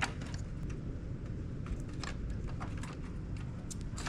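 Screwdriver and small screws making faint, irregular clicks and ticks, several a second, as screws are fitted into the back of a cassette deck.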